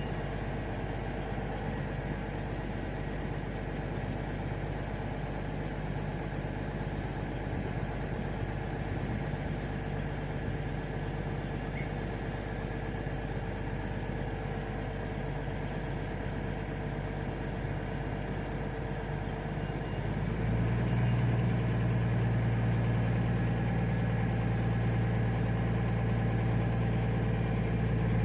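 Underfloor diesel engines of a coupled Class 220 Voyager and Class 221 Super Voyager diesel-electric train idling steadily at the platform; about twenty seconds in the engine note shifts and grows louder as the engines rev up.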